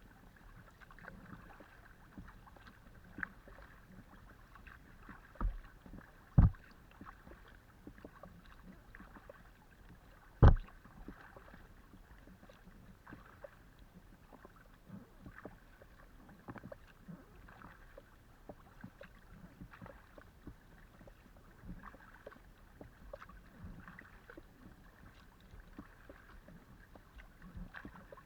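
Kayak paddling: a steady patter of small splashes and drips from the paddle blades. There are three sharp knocks about five and a half, six and a half and ten and a half seconds in, the last the loudest.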